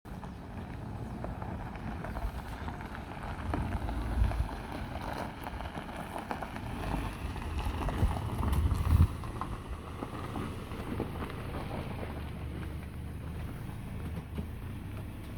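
Wind buffeting the microphone: a low rumble that swells in gusts about four seconds in and again around eight to nine seconds, with a few faint knocks.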